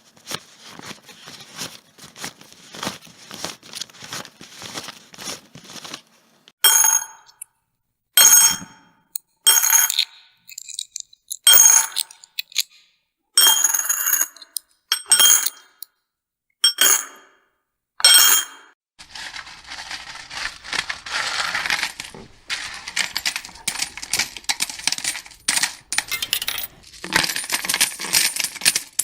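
Metal coins clinking: first a quick patter of light clicks, then a dozen or so separate ringing clinks, then from about 19 seconds in a long, dense jingle of many coins together.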